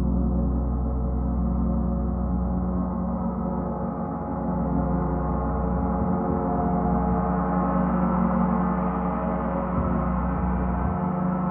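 Gong sounding in a continuous wash of many overlapping sustained tones, the low hum swelling and easing slightly every few seconds.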